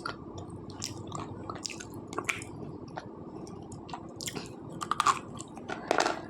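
A person biting and chewing slate pencil, with irregular sharp crunches and crackles; a few louder bites come about five and six seconds in.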